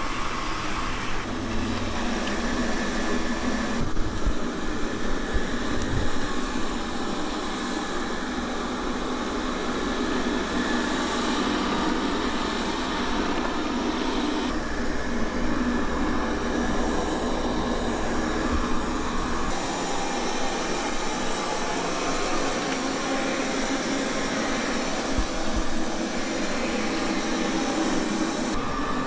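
Qihoo 360 S9 robot vacuum running with a steady whir, its tone shifting slightly a few times.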